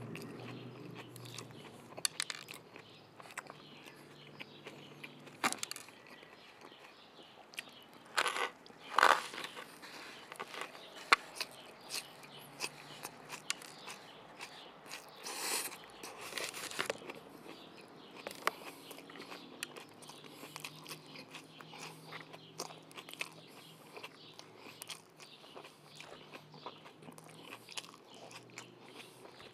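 A person biting into and chewing a chicken burger close to the microphone: scattered small mouth clicks and smacks, with a few louder bites about eight and fifteen seconds in.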